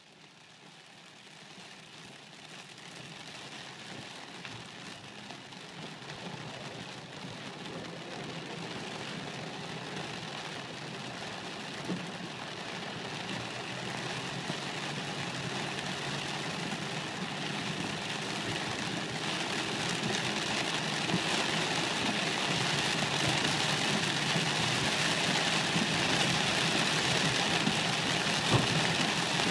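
Heavy rain drumming on a car's roof and windshield, heard from inside the moving car, over a low engine hum. The rain grows steadily louder.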